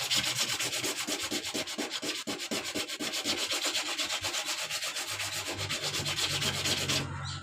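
Coarse sandpaper rubbed by hand in quick, even back-and-forth strokes, about five or six a second, over the damaged area of an epoxy surfboard. The surface is being roughened so the new resin and fiberglass will bond. The strokes stop about seven seconds in.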